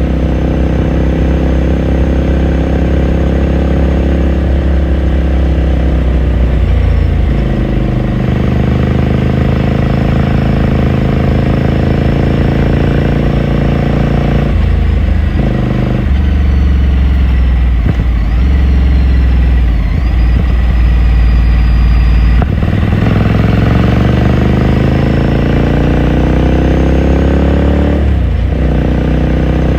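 2018 Ducati Scrambler Sixty2's 399 cc air-cooled L-twin engine and exhaust while riding. The engine note holds steady, climbs in pitch under acceleration and drops back at gear changes, about six times, with a long rising pull before the last shift near the end.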